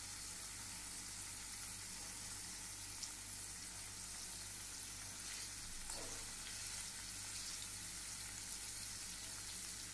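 Paneer cubes shallow-frying in oil on a low flame: a faint, steady sizzle, with a light fork click about three seconds in as the cubes are turned.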